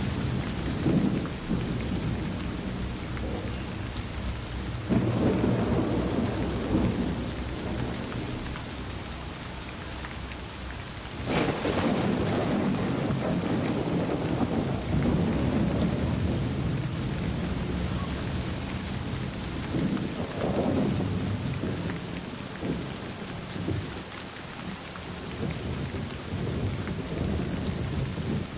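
Steady rain falling, with rolls of thunder rumbling over it; the loudest, sharpest clap breaks out about eleven seconds in and rumbles away over several seconds, with other swells a few seconds in and past the twenty-second mark.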